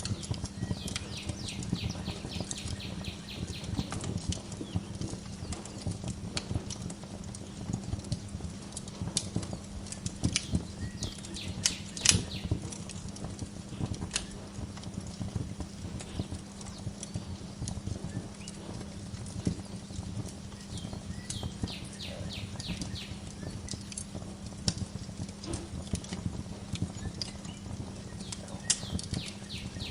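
Wood fire crackling in a fireplace, with a dense run of small pops and snaps over a low steady rumble and a sharper pop about twelve seconds in. A bird trills in quick runs of high chirps three times: about a second in, about two-thirds through, and near the end.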